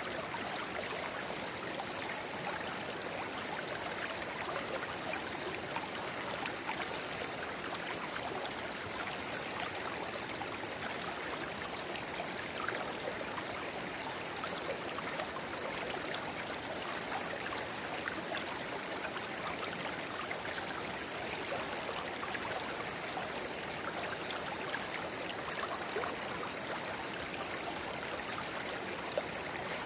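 A shallow river babbling steadily, with spring water running into it as a small side flow; an even rushing of water dotted with fine splashes and drips.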